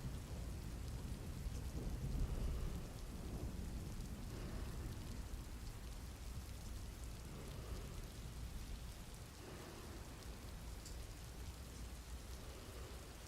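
Steady rain with a low rumble of thunder that swells about two seconds in and then slowly fades.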